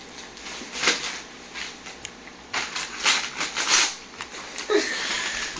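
Wrapping paper crinkling and tearing in bursts as a dog rips it off a present with its mouth, with the loudest stretch a little under halfway in.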